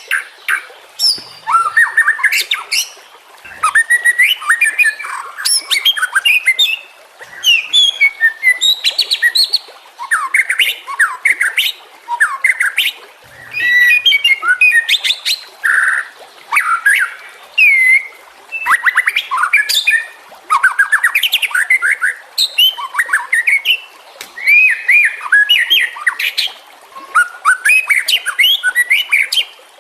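White-rumped shama singing: varied whistled phrases with quick slurred notes, trills and harsher chattering notes, in bursts of a second or two separated by short pauses.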